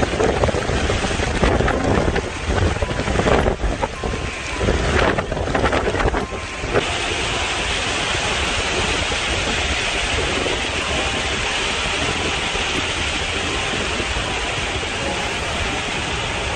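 Storm wind buffeting the microphone in uneven gusts. About seven seconds in it cuts abruptly to a steady, even rushing hiss of storm weather.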